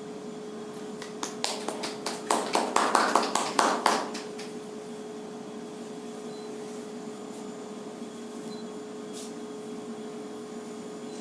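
A short spell of scattered hand clapping from a few people: about a dozen uneven, sharp claps over some three seconds, then it stops, leaving a faint steady hum.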